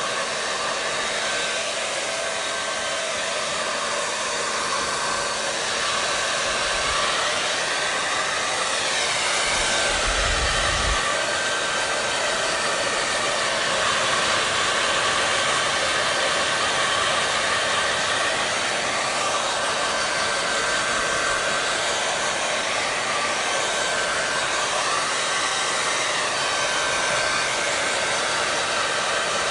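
Hair dryer blowing steadily: a continuous rush of air over a faint motor hum, the tone drifting slowly every few seconds. A brief low rumble about ten seconds in.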